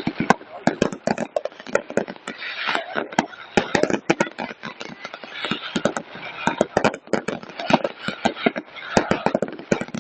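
Fireworks display going off in rapid, irregular bangs and crackles.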